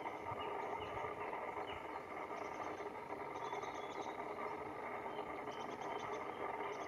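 Faint, short, high bird calls coming in a few brief clusters over a steady background hum.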